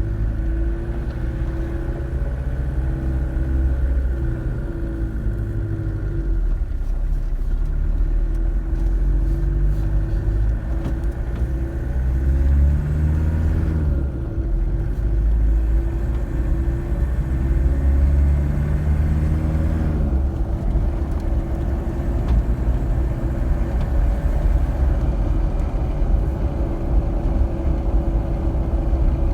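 Toyota Hilux with a G52 gearbox and RF1A transfer case, driving off in low range while cold. The engine pitch climbs and drops back three times as it shifts up, then runs steadier and higher, with a drivetrain hum underneath.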